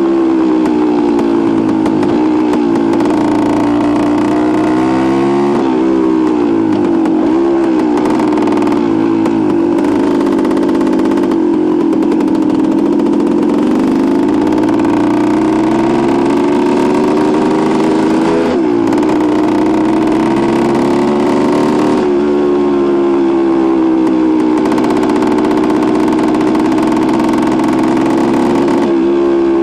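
1973 Suzuki TS250's two-stroke single-cylinder engine running under way, its pitch climbing and dropping again and again as it is throttled and shifted through the gears.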